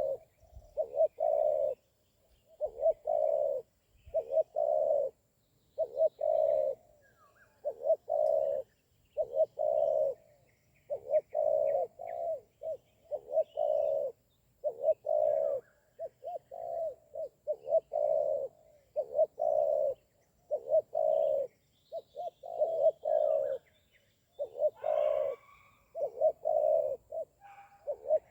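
Spotted doves cooing: short low coos repeated phrase after phrase, about one a second, with faint chirps of small birds above them.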